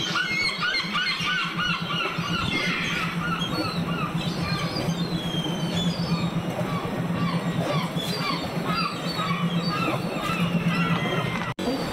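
Birds calling: many short, squealing calls that rise and fall in pitch, overlapping, over a steady low hum. The sound cuts out for an instant near the end.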